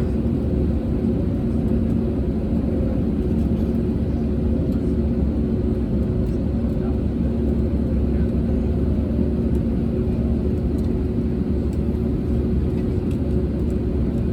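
Steady cabin drone of an Airbus A320neo on the ground at low power, from its Pratt & Whitney PW1100G geared turbofans and air conditioning. It is an even low hum with two steady tones.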